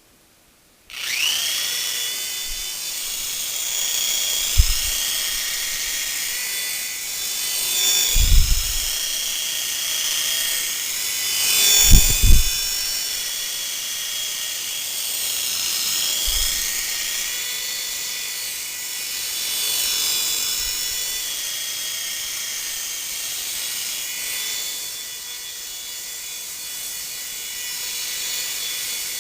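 Mini radio-controlled toy helicopter's small electric motor and rotors spinning up about a second in, then a steady high-pitched whine that rises and falls in pitch as it is flown. A few low thumps come through, the loudest about twelve seconds in.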